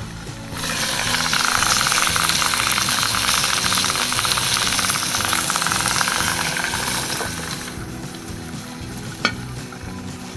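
Roast chicken sizzling in a cast iron Dutch oven over a strong fire: a loud, dense crackling sizzle that starts abruptly about half a second in and dies down after about seven seconds.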